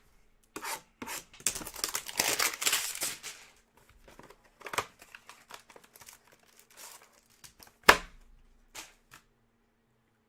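Trading-card hanger box packaging being torn open and crinkled, loudest for about three seconds near the start. Scattered handling noises follow, with a sharp snap about eight seconds in.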